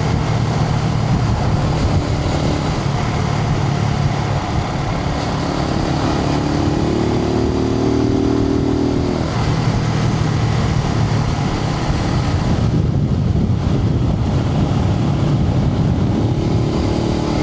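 Suzuki TU250X's single-cylinder engine running steadily under way, heard from a microphone inside the rider's helmet, with a steady rush of road and wind noise over it. A higher engine note comes in for a few seconds in the middle.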